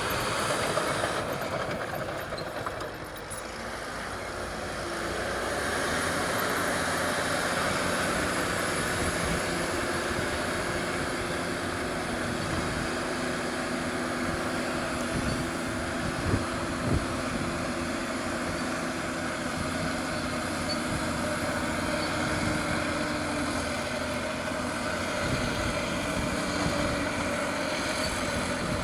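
Caterpillar D6R crawler bulldozer working, its diesel engine running steadily along with the metallic rattle of its steel tracks. The sound eases briefly about three seconds in, and two sharp knocks come about sixteen and seventeen seconds in.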